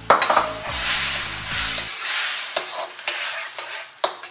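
Fried chicken pieces going into a hot wok of simmering sauce and chicken stock over high flame, sizzling loudly as they are stirred. A few sharp clicks come from the spatula against the wok.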